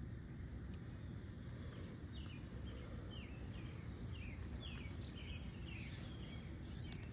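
A bird repeating short, downward-slurred chirps, about two a second, starting about two seconds in, over a low rumbling background noise.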